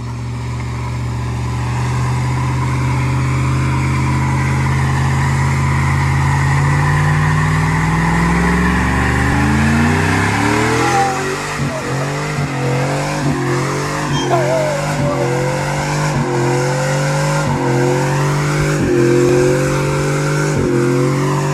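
Chevrolet Silverado's stock 5.3-litre V8 revving during a burnout: engine speed climbs steadily for about nine seconds, then is held high with repeated quick dips and pickups, over the squeal of spinning rear tires.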